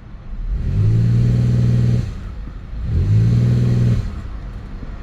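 Buick LaCrosse engine brake-torqued twice, in gear against the brakes: each time the revs climb quickly, hold steady for about a second, then drop back to idle. The engine runs without the cylinder 4 misfire, which was cured by a new ignition coil.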